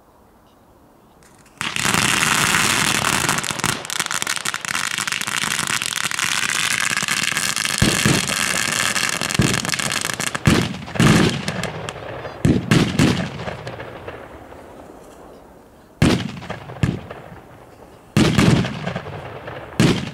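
Fireworks going off: a loud hissing, crackling burn starts about a second and a half in and lasts around nine seconds, overlapped and followed by a string of separate booming bangs.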